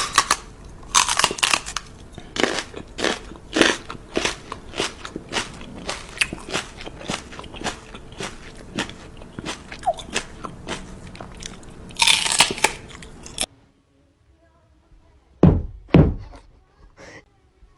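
Crunchy food being bitten and chewed, a quick run of crunches several times a second, cutting off about 13 seconds in. Two low thumps follow, about half a second apart.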